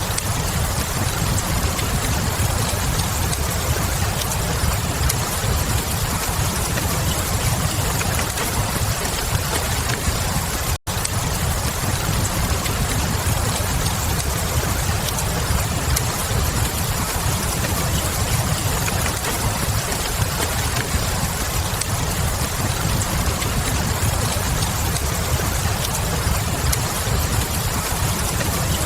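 Fireplace crackle layered over steady rain, with a deep low rumble beneath. The whole bed drops out for an instant about eleven seconds in.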